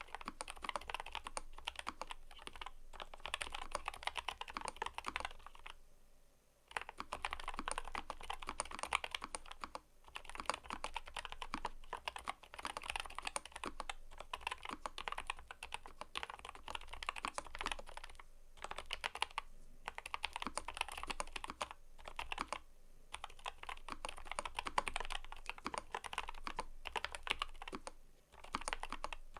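Fast, continuous typing on a mechanical keyboard, a dense stream of key clicks and clacks. It is broken by a few brief pauses, the longest about six seconds in.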